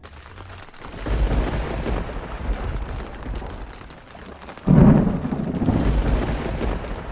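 Thunder rumbling in about a second in, then a sudden loud thunderclap near five seconds that rolls on and slowly fades, over steady falling rain.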